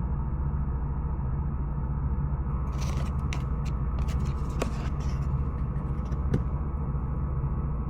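Steady low rumble of a vehicle in motion, with a few light clicks and knocks in the middle.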